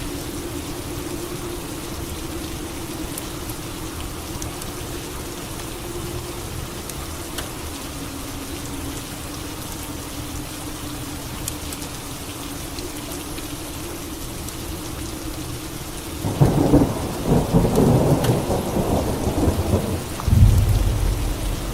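Steady rain, with thunder rumbling loudly about two-thirds of the way in for a few seconds, and a second deep rumble of thunder near the end.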